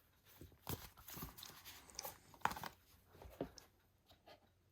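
Faint rustles and soft taps of a paper booklet being handled, its pages held and turned.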